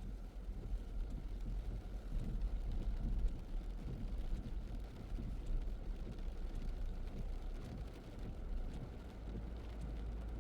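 Car driving on wet roads: a steady low rumble of road and wind noise.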